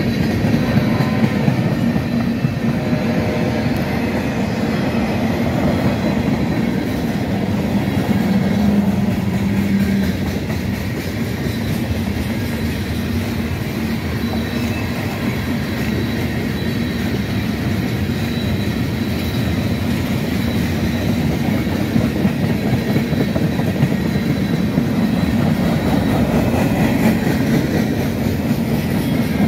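Norfolk Southern freight train cars rolling past close by: a steady rumble of steel wheels on rail with clickety-clack over the joints. A faint high-pitched wheel squeal runs through the middle.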